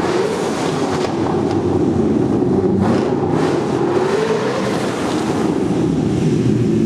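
Twin-turbocharged Ford Coyote 5.0 V8 held at high revs during a burnout, its pitch rising and falling.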